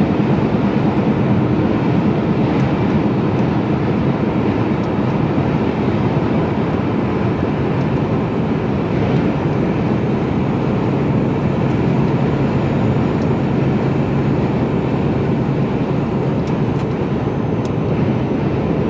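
Cab interior of a Mercedes-Benz Actros lorry cruising at motorway speed: a steady diesel engine drone under constant road and tyre noise.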